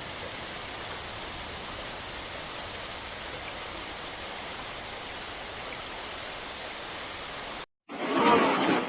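Rushing floodwater: a steady, even rush of water noise. Near the end it cuts off for a moment and louder voices begin.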